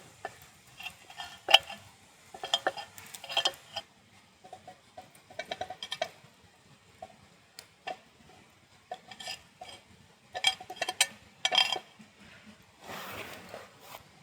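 Metal camp cookware and utensils clinking and knocking as they are handled, in irregular clusters of sharp strikes with short ringing. A brief hiss follows near the end.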